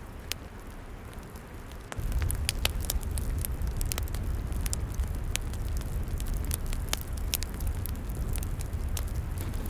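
Wood log campfire crackling, with sharp pops. About two seconds in it suddenly grows louder, with a low rumble underneath and denser crackling.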